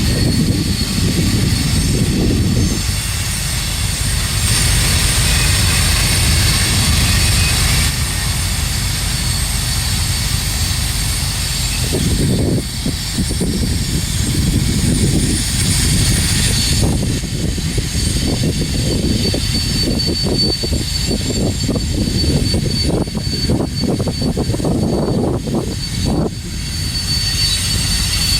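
Freight train rolling past: a steady heavy rumble of locomotives and cars. A thin high wheel squeal runs over it, and from about halfway the rhythmic clatter of wheels over the rails gets stronger.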